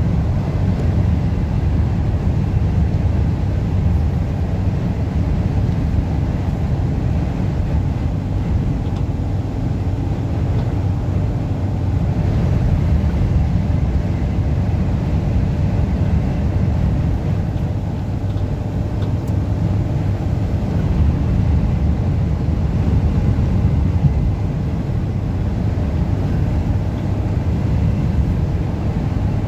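Car driving steadily at highway speed through strong wind. A continuous low rumble of road, engine and wind noise with no distinct events.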